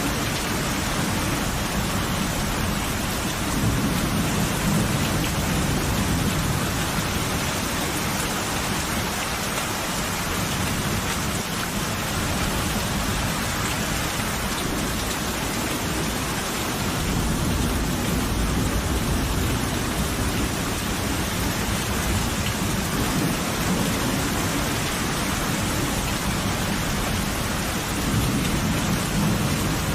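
Steady heavy rain hissing, with low thunder rumbling several times, swelling around a few seconds in, again past the middle and near the end.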